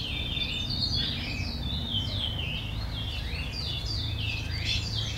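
Small birds chirping continuously, many quick calls overlapping one another, over a low steady rumble.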